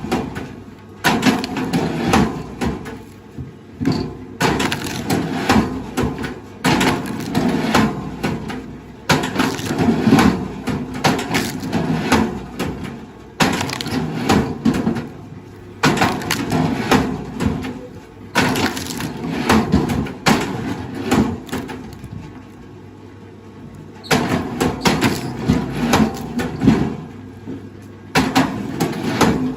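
Wood cracking and splintering in repeated bouts of one to three seconds, each dense with sharp cracks and snaps, starting and stopping abruptly.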